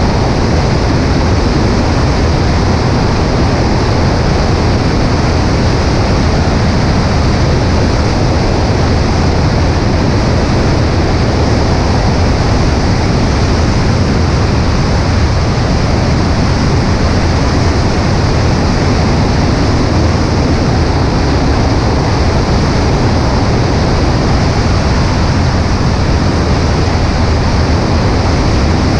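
Cessna 140A light aircraft's piston engine and propeller running at a steady drone, mixed with wind rush over a wing-mounted microphone.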